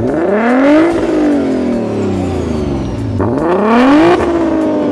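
Car engine revved twice: each time the pitch climbs quickly for about a second and then falls slowly back toward idle.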